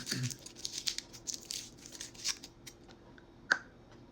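Foil wrapper of a Hershey's chocolate heart crinkling and tearing as it is unwrapped, a quick run of crackles, followed by one sharp click about three and a half seconds in.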